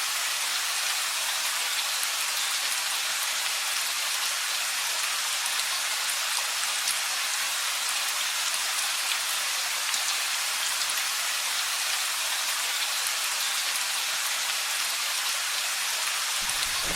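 Steady rain falling: an even hiss with fine drop ticks. A low rumble of thunder begins right at the end.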